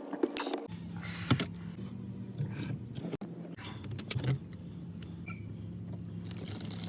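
A steady low motor-like hum that starts about a second in, with scattered clicks and jingling over it.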